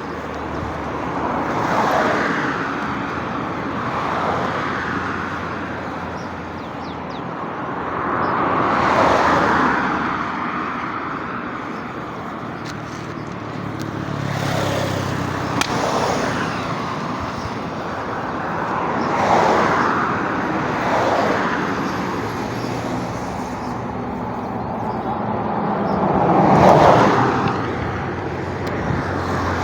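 Road traffic: vehicles passing one after another, each one rising and fading within a few seconds, the loudest passing near the end.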